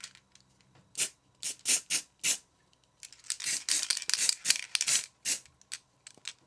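Aerosol can of grey primer spray paint hissing in a series of short bursts, with a few longer sprays in the middle.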